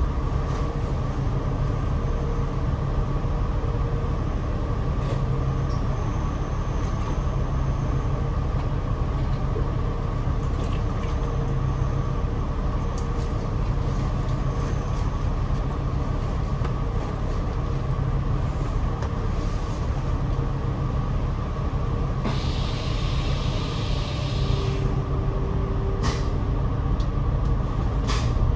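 Interior noise on the upper deck of a moving double-decker bus: a steady low engine and road rumble. About two-thirds of the way through, a hiss of air lasts some two seconds, and there are a few light rattles and clicks.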